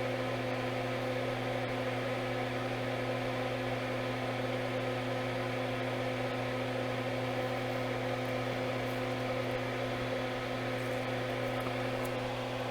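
Steady low hum of running bench equipment: a drone made of a few held tones over a faint hiss.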